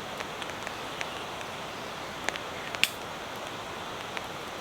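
Steady hiss of light rain with a few scattered sharp ticks, the loudest nearly three seconds in.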